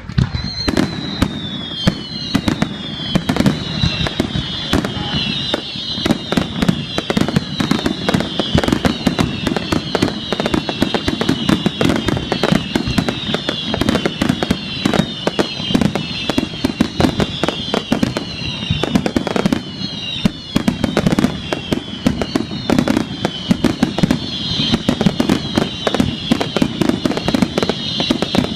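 Fireworks display in a dense, continuous barrage of bangs and crackling. Many overlapping whistling fireworks fall in pitch throughout.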